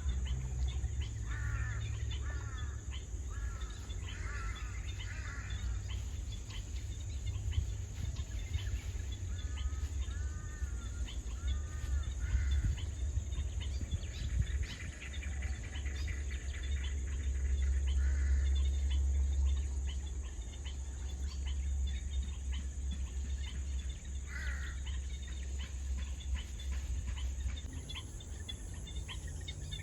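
Birds calling in short groups of quick arched notes, over a steady high-pitched insect drone and a constant low rumble.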